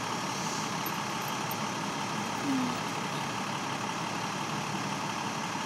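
Vehicle engines idling with a steady hum and street noise.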